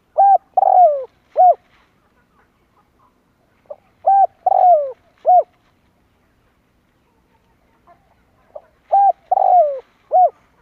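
Spotted dove cooing: three matching phrases, each a few short coos around one longer coo that falls in pitch, repeated about every four to five seconds.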